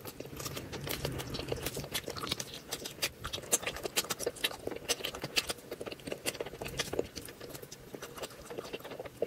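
Close-miked eating: chewing and wet mouth smacks, heard as many quick, irregular clicks.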